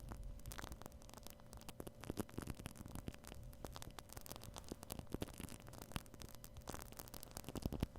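Shaving cream foam squished and rubbed against a binaural microphone's ear, giving dense, irregular crackling, with a faint steady hum underneath.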